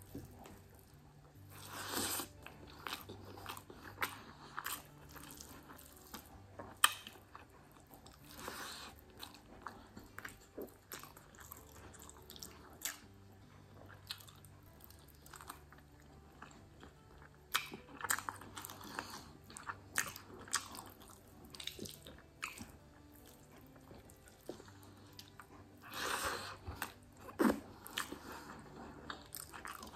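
Close-miked chewing and biting of rice and curry eaten by hand, with crunchy bites and scattered sharp clicks.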